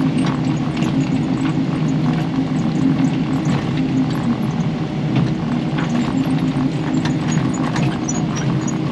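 Kubota KX080 excavator's diesel engine running steadily under working load, heard from inside the cab, with scattered light knocks and rattles from digging.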